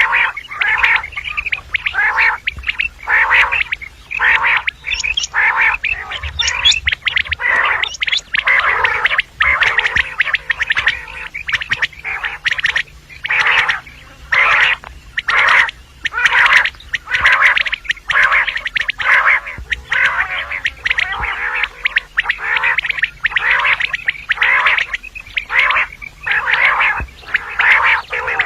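Female common quail calling: a continuous run of short, rasping repeated notes, about two a second. This is the kind of call used as a lure in quail hunting.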